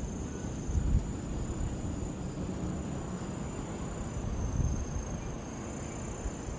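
Outdoor ambience: insects trilling steadily on a high, thin note over a low, even rumble of wind.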